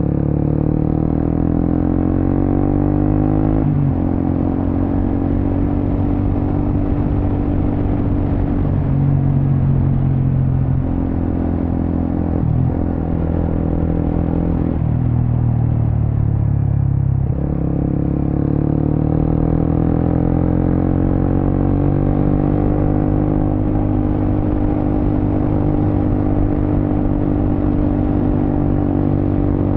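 Suzuki GSX-S150's single-cylinder engine through a Quinze big-volume aftermarket exhaust while riding. It revs up and drops sharply in pitch about four seconds in at a gear change, eases off twice in the middle, then pulls up again and holds a steady cruise.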